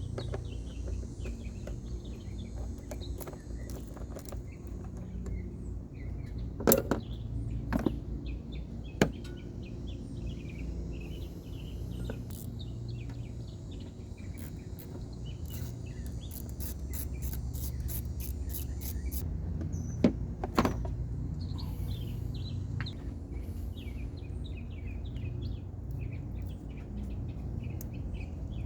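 Birds chirping over a steady low rumble, broken by a few sharp knocks: a cluster about a quarter of the way in and two more about two-thirds through. Just past the middle comes a short run of quick high ticks, about four a second.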